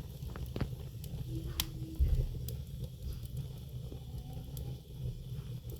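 Wood fire burning in a fireplace: a steady low rumble with scattered sharp crackles and pops, and a louder dull thump about two seconds in.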